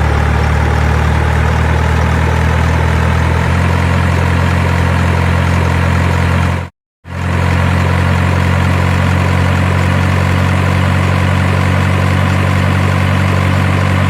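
A low, steady engine idling, with a slight change in tone about three and a half seconds in. It cuts out completely for a moment about seven seconds in, then carries on unchanged.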